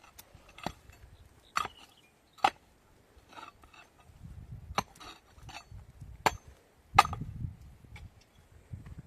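A series of sharp knocks at uneven intervals, about six strong ones, with duller low thumps in between, like chopping or hammering by hand.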